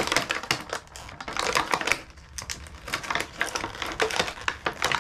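Toy packaging being handled and pulled at, giving a rapid, irregular run of clicks and crackles.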